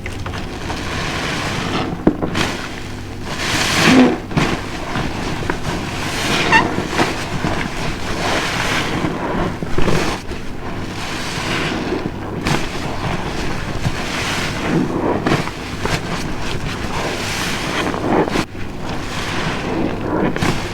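A large car-wash sponge soaked with Fairy dishwashing detergent squeezed over and over, giving wet, foamy squelches that swell every two seconds or so.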